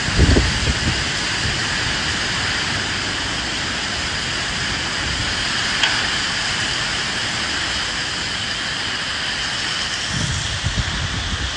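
Steady heavy rain hiss, with low rumbles swelling at the start and again near the end, and a single short tick about halfway through.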